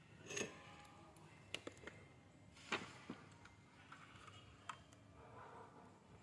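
Scattered light clicks and taps of tools and parts being handled during battery charger repair work: about six short knocks, the loudest a little under halfway through.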